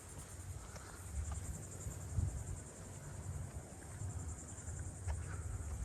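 Steady high-pitched chorus of insects trilling, with low thuds of footsteps walking about once a second.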